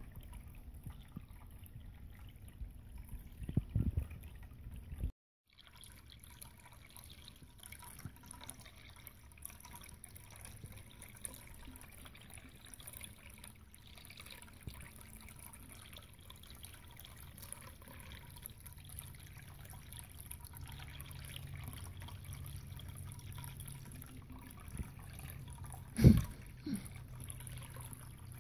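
Drinkwell Stone Pagoda ceramic cat fountain running: water trickling and dripping down its tiers over a low steady hum. The sound cuts out briefly about five seconds in, and a single loud knock comes near the end.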